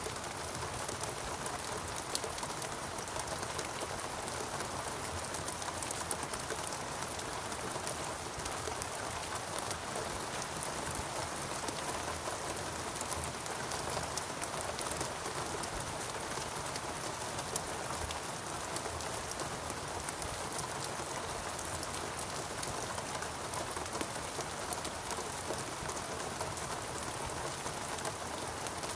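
Steady heavy rainforest rain falling on foliage and surfaces, a dense even hiss full of fine drop ticks.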